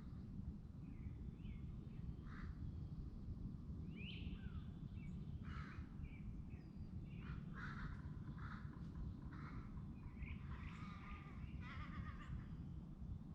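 Birds calling: short harsh calls and chirps that come more thickly in the second half, over a steady low rumble.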